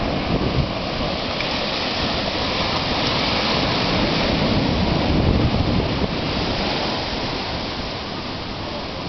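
Heavy ocean surf breaking and washing, with wind buffeting the microphone.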